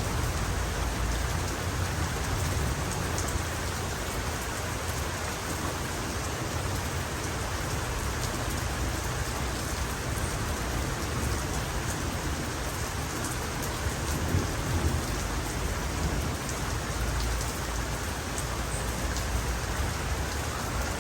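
Heavy rain falling steadily, with low rolls of distant thunder that swell briefly near the start, about two thirds of the way in, and again near the end.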